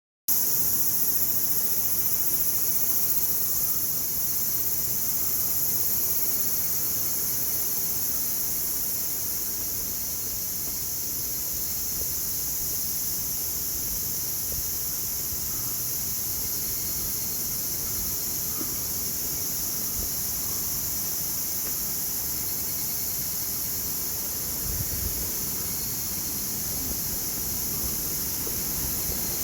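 Steady outdoor ambience in a mountain gorge: a continuous high-pitched hiss over a low rumble, with no clear events.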